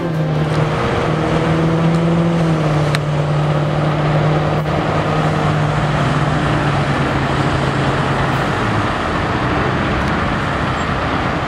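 Street traffic noise with a vehicle engine's steady hum that fades out about eight seconds in.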